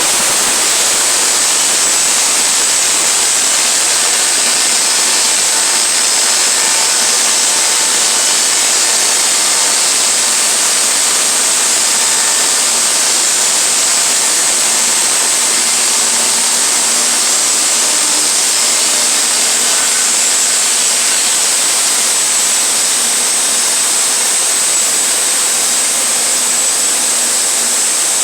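Sawmill running, a steady loud rushing noise with a thin high whine held throughout.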